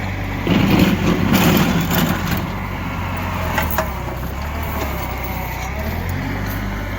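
A snow-clearing machine's engine running steadily. About half a second in, a burst of rough crunching lasting about two seconds comes over it, likely the machine working through wet, compacted snow.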